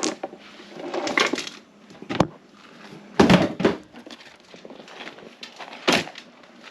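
Scattered crunching, rustling and knocking as things are handled, in irregular bursts; the loudest come about three seconds in and near the end.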